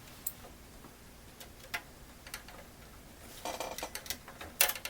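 Scattered light clicks and ticks of small metal computer-case parts being handled and slid into place, with a short run of rattling clicks a little over three seconds in and a sharper click near the end.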